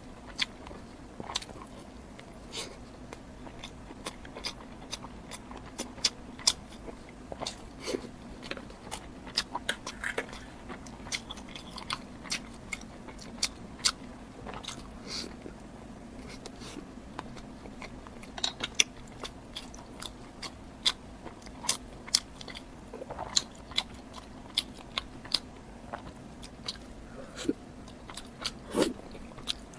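Close-miked eating: biting and chewing with sharp, irregular crunchy clicks and wet mouth sounds, over a faint steady hum.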